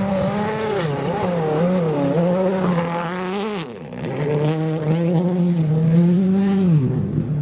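A 2017 World Rally Car's turbocharged 1.6-litre four-cylinder engine running hard at high revs. The revs hold high with small wobbles, fall steeply about halfway through, climb back, and fall again near the end.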